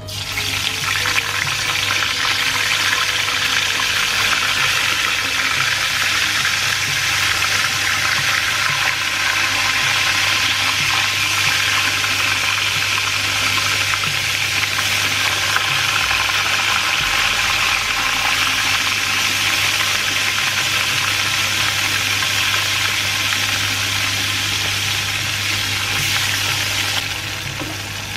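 Tempeh slices deep-frying in hot oil in a frying pan: a loud, steady sizzle that starts as the first slice goes in and eases slightly near the end.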